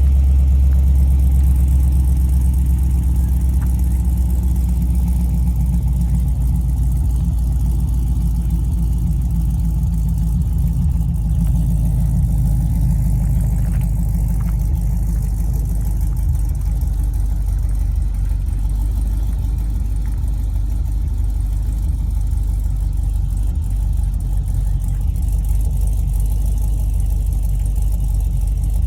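2014 Camaro SS 1LE's 6.2-litre LS3 V8 idling through long-tube headers and a Magnaflow Street Series exhaust: a loud, steady, deep exhaust note that eases a little about halfway through.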